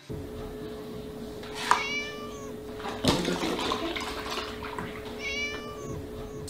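Kitten meowing twice, two short high calls a few seconds apart, with a single sharp knock between them as a milk carton tips over. A steady low hum runs underneath.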